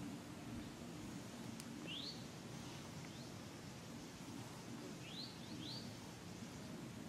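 Faint short rising bird chirps, a few scattered ones and then three close together about five seconds in, over steady low background noise, with one sharp tick early on.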